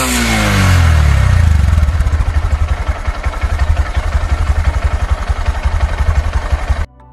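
Exhaust of a 125cc single-cylinder commuter motorcycle. It drops from a rev back to idle in the first second or so, then idles with a steady, pulsing beat, and cuts off suddenly near the end.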